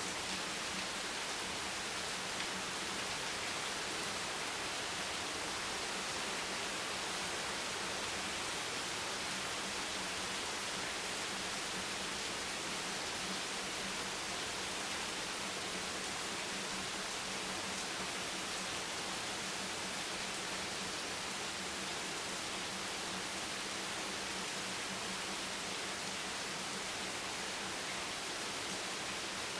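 Steady, even hiss of rain falling, with no separate drops or changes. A faint low hum runs steadily underneath.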